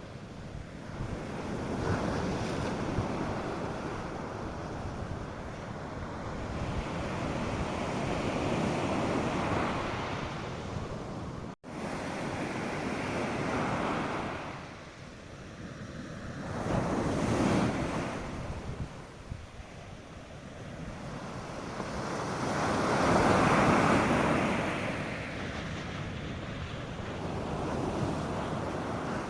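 North Sea surf breaking on a sandy beach, the wash rising and falling in swells every few seconds, with some wind on the microphone. The sound cuts out for an instant about a third of the way in.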